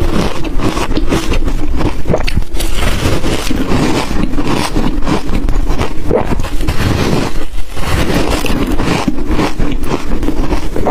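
Ice being bitten and crunched in the mouth close to the microphone: dense, continuous crunching and crackling.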